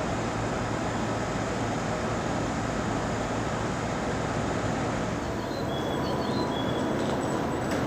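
Steady hum and rumble of an electric train at a station, with a few short, high squeaks over the hum in the second half.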